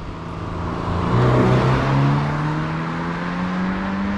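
Toyota GR86's 2.4-litre flat-four petrol engine pulling under acceleration, its note rising steadily in pitch as the revs climb. It grows louder over the first second or so.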